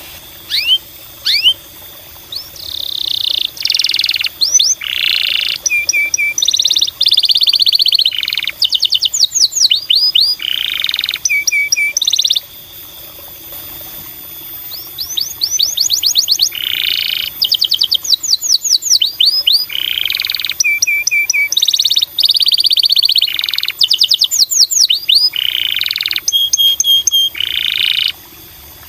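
Domestic canary singing a long, varied song of rapid trills and rolls and repeated rising chirps, in phrases with a short lull about halfway through.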